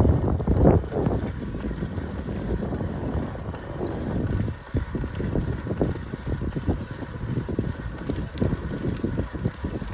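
Wind buffeting the microphone of a camera carried on a moving bicycle: a gusty low rumble with irregular surges, strongest about the first second.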